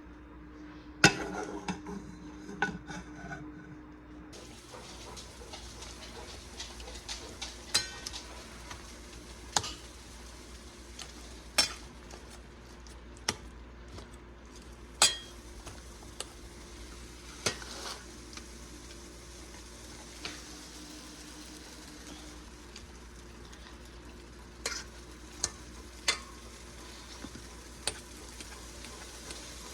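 Stovetop cooking: a steady hiss of a pot of water heating on the burner, with scattered sharp clinks of utensils and dishes. The hiss comes in about four seconds in, and the loudest clink is about a second in.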